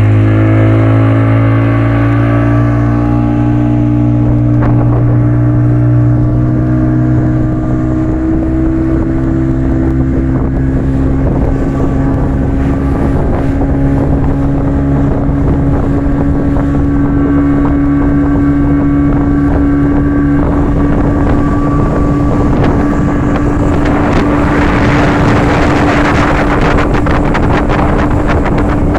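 Speedboat engine throttling up and rising in pitch as the boat gets under way, then running steadily at speed. A rushing of wind and water grows louder in the last few seconds.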